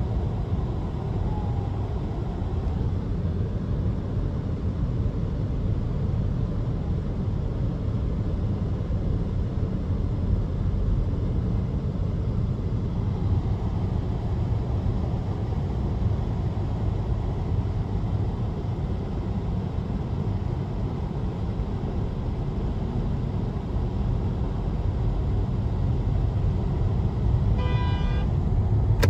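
Steady low road rumble of a car driving on the highway, heard from inside the cabin. Near the end a car horn sounds briefly in a few quick, choppy pulses.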